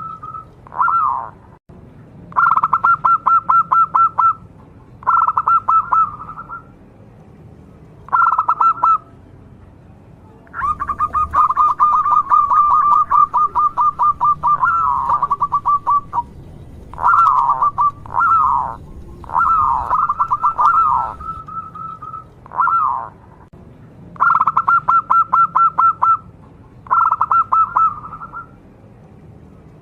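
A local zebra dove (perkutut) singing actively: repeated phrases of rapid pulsed cooing, most one to two seconds long, one running about five seconds near the middle, with short pauses between.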